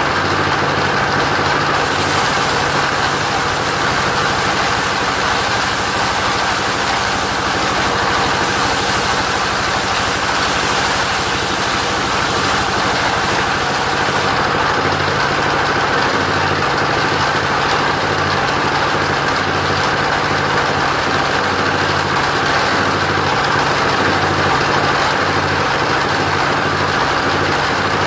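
Engine of a portable sawmill running steadily, with a steady hiss of machine noise over it.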